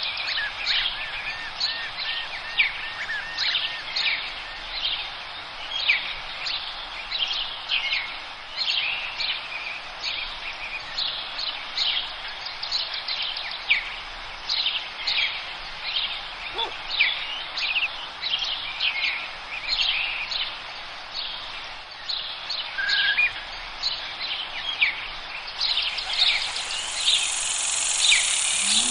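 A chorus of forest songbirds chirping, many short quick calls overlapping, with a brief warbling trill early on, over a steady background hiss. A higher, even hiss comes in near the end.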